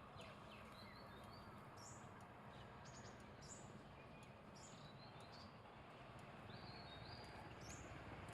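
Faint birds calling: scattered short, high chirps every second or so over a low, steady background hiss.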